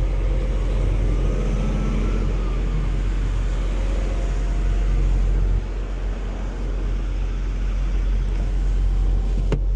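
Semi-truck tractor's diesel engine running as it drives without a trailer, a steady low rumble heard inside the cab. The sound drops a little past halfway through, and a short click comes near the end.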